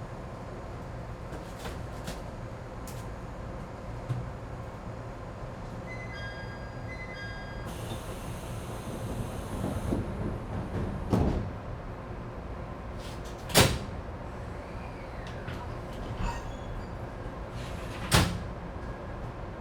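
Inside an ET127 series electric train stopped at a station: the door chime beeps, air hisses, and the doors slide shut with a thud, followed by a couple more loud clunks over a steady low hum.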